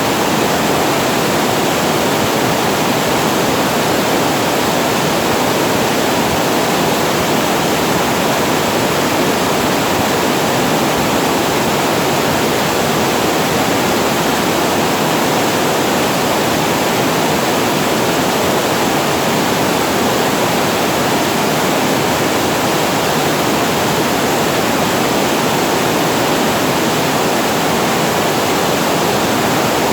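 Water pouring over a reservoir weir into the pool below, a loud, steady rush with no breaks or changes.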